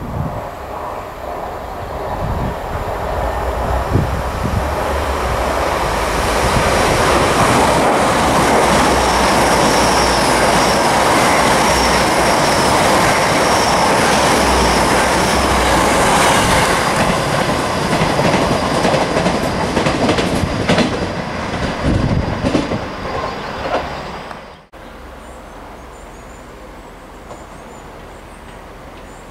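LNER Class 800 Azuma train passing close by: the rush of wheels and engines builds as it nears, then runs loud with clickety-clack from the wheels and a high whine. About three-quarters of the way through it cuts off sharply to a much quieter steady rumble.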